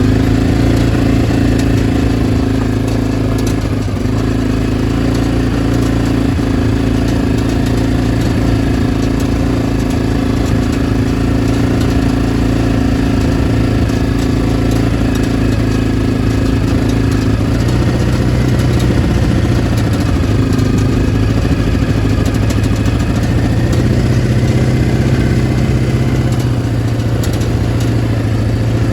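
Lawn mower's small engine running steadily after its carburettor has been cleaned. The note shifts slightly a few times in the second half.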